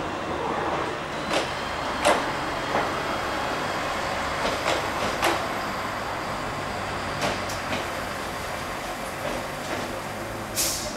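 A train running on rails: a steady rumble with irregular sharp clanks and knocks, and a short hiss near the end.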